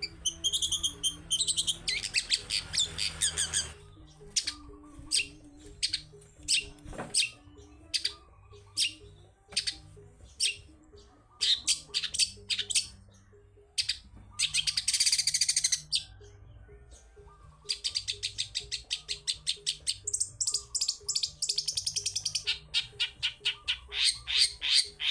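Long-tailed shrike singing: sharp single chips alternating with fast, rattling trills, several of them lasting a few seconds.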